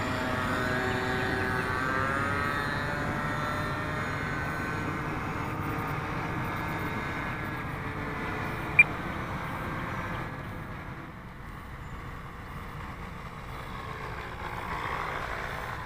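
RC model airplane's two-stroke glow engine, believed to be an O.S. .46 AX, running as the plane flies a go-around, its pitch slowly gliding and the sound fading away about ten seconds in before swelling a little again near the end. A brief sharp click about nine seconds in.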